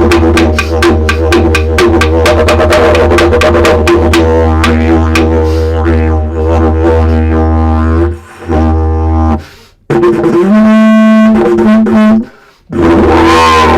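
Didgeridoo played with a steady low drone and a fast, even rhythmic pulsing. It breaks off briefly twice past the middle, holds a single higher steady tone for a couple of seconds, then drops back into the pulsing drone near the end.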